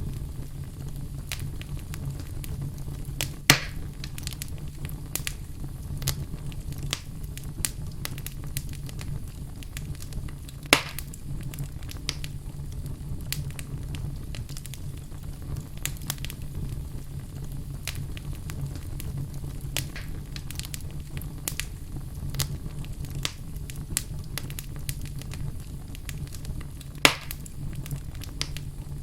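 Wood fire burning in a fireplace: steady crackling with frequent small snaps over a low rumble, and three louder pops, about three seconds in, about eleven seconds in and near the end.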